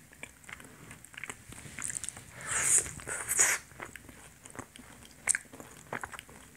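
Close-up chewing of a cream-dipped glutinous-rice (chapssal) donut: soft, wet mouth clicks throughout, with two louder, noisier bites or chews in the middle.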